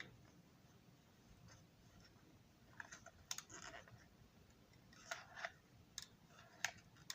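Faint, scattered clicks and taps of small objects being handled, a few of them in the second half, against near silence.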